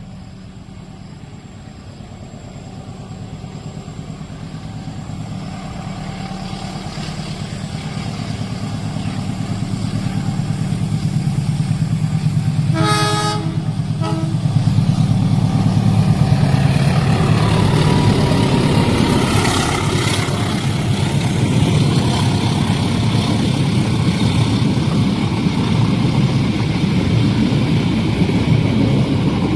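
A train approaching a level crossing, growing steadily louder; about thirteen seconds in its horn sounds for roughly a second and a half. It then passes close by, its engine and wheels on the rails running loud and steady.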